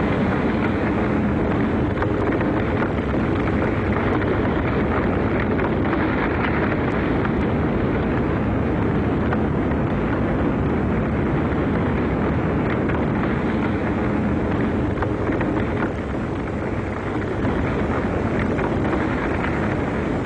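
Steady, loud roar of a volcanic lava fire fountain erupting, with wind buffeting the microphone.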